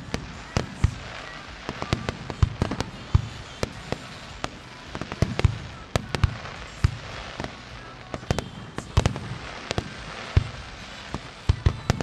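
Fireworks display finale: aerial shells bursting in rapid, irregular succession, several sharp bangs a second, over a continuous crackling hiss.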